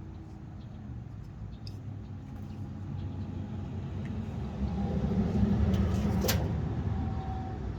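A car driving past, its low rumble swelling to a peak about two-thirds of the way through and then fading. A sharp click sounds near the peak.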